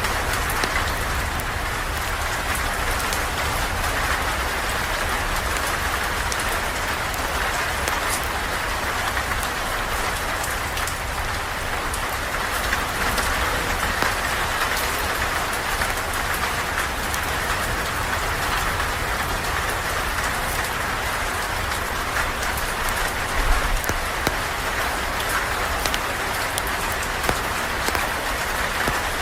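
Steady rain falling on a porch, a constant hiss with a low rumble underneath, and many small sharp crackles of a campfire scattered through it.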